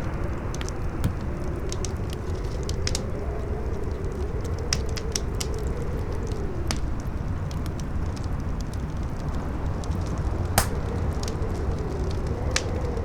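Campfire crackling with scattered sharp pops, one much louder about two-thirds of the way through, over strong wind howling in a steady rush whose pitch rises and falls.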